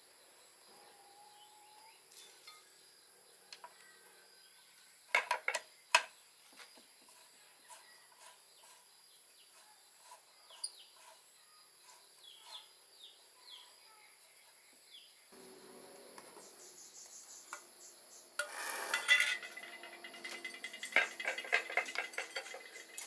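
Metal parts and tools clinking and clattering: a few sharp clicks about five seconds in, then a denser rattle of metal against metal in the second half. Insects chirp steadily throughout.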